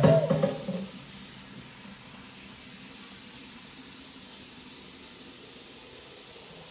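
A steady, even hiss that stops abruptly, opening with a brief pitched sound in the first second.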